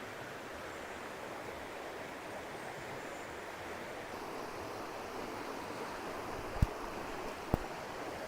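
Steady rushing noise, with two sharp clicks about a second apart near the end.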